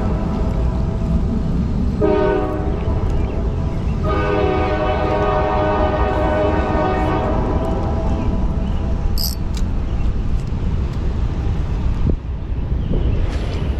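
Train horn sounding a chord of steady tones: a blast that ends about half a second in, a short one about two seconds in, and a long one from about four to seven and a half seconds. Under it runs a steady low rumble, with a single knock near the end.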